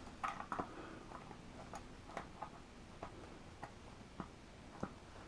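Faint, irregular clicks and taps of pliers pinching a switch's plastic retaining clip to free it from the compressor housing.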